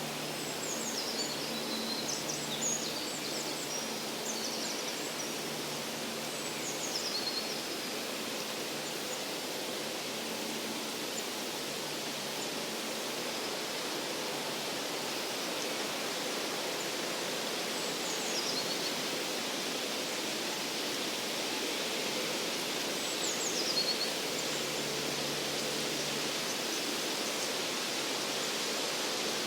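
Forest ambience: a steady rushing background with a few short, high, downward-sliding songbird calls. The calls come in a cluster in the first few seconds, then once more, and twice later on.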